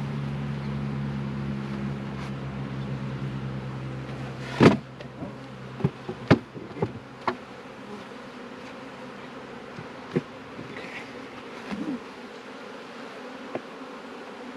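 Honeybees buzzing around a hive, a steady hum that is fuller for the first few seconds and then drops lower. Several sharp knocks cut through it, the loudest about four and a half seconds in, with a few more soon after and one near ten seconds.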